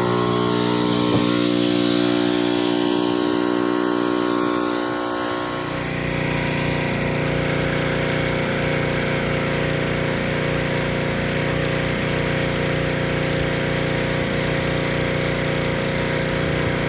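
Pressure washer's small engine running steadily. About five seconds in its pitch drops and a steady hiss joins it.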